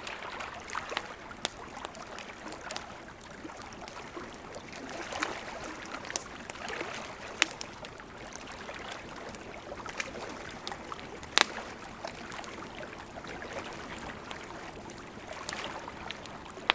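Campfire crackling, with scattered sharp pops of burning wood, the loudest about eleven seconds in, over ocean waves washing in and receding in slow swells.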